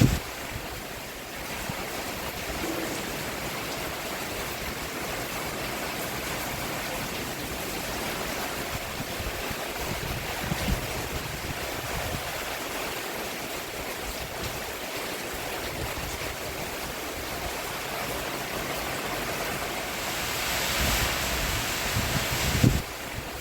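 Rain falling on a roof, a steady hiss. It grows louder near the end, then drops off suddenly.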